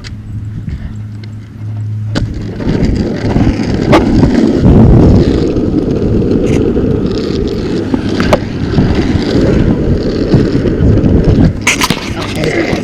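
Longboard wheels rolling on pavement: a loud, steady, gritty rumble that starts about two seconds in, with a couple of sharp clicks along the way.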